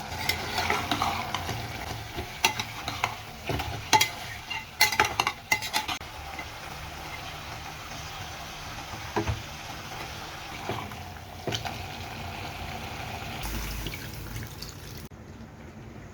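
Curry frying and sizzling in a pan while a spoon stirs it, knocking and scraping against the pan. The knocks come thick in the first six seconds, then only now and then.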